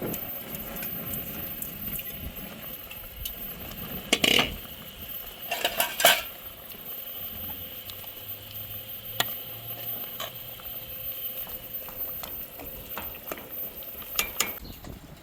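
A metal utensil stirring and clinking against a cooking pot over food sizzling in the pan, with scattered clicks and two louder clatters about four and six seconds in.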